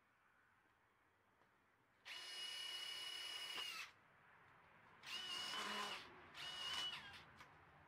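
Power drill run in three bursts: a long one of nearly two seconds, then two shorter ones close together, its motor whining at a steady pitch and dropping off as each burst ends.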